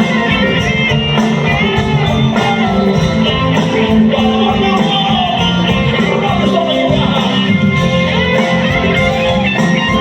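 Band playing an instrumental break in a romantic ballad: a guitar carries the melody over a steady beat.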